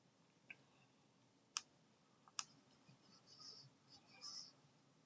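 A few soft clicks from handling a vape pen, then two short draws on it, each a high, thin whistling hiss.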